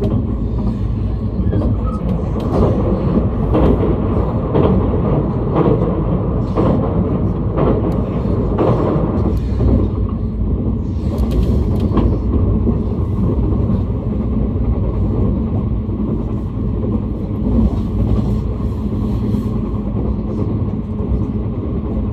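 JR East train running, heard from inside the carriage: a steady low rumble with a series of short clacks, about one a second, through the first half.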